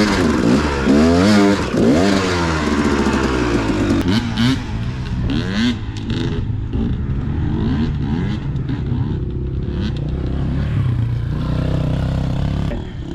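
Dirt bike engine revving up and down quickly, then running steadier at lower revs, with scattered knocks from the bike on rough ground.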